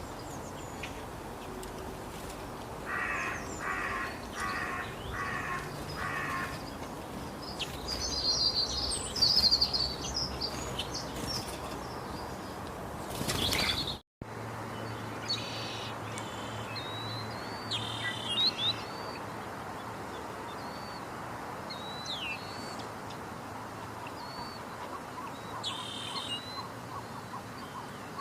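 Wild birds calling over a steady outdoor background: a run of five evenly spaced calls, then bursts of high chirps. The sound drops out briefly at a cut about halfway through, and short high chirps and whistles follow.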